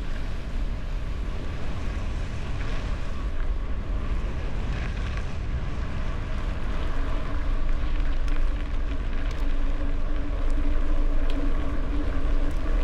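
Wind rushing over the microphone and tyre rumble from a gravel bike rolling along, with scattered light clicks and rattles. A steady hum comes in about halfway through and grows louder toward the end.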